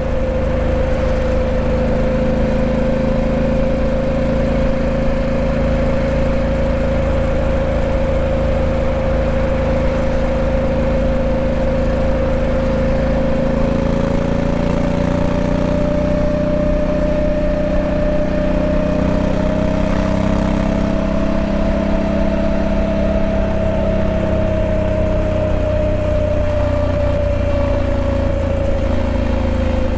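Honda Africa Twin 1100's parallel-twin engine running steadily, its pitch rising slightly around the middle and easing back down near the end.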